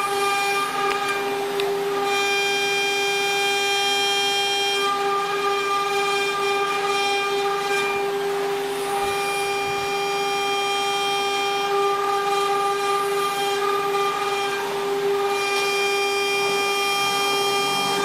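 Spindle of a 4040 CNC engraving machine running a steady high-pitched whine while engraving a mould. The upper overtones drop out and come back several times, around a third of the way in, halfway and near the end.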